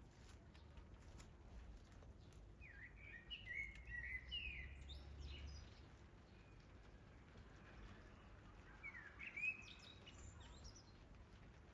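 A songbird chirping in two short bursts of quick, sliding notes, one about two and a half seconds in and another about nine seconds in. Underneath is a faint hiss of light rain with scattered drop ticks.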